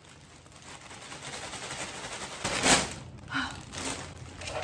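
Plastic Amazon poly mailer bag crinkling and rustling as it is handled, with a loud crackle a little past halfway and a few smaller ones after.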